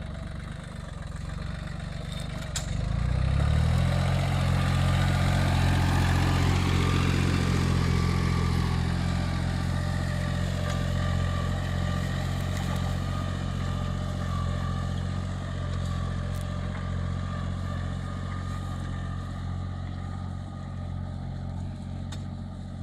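Mini tractor engine running while plowing, speeding up about three seconds in and then holding a steady pitch.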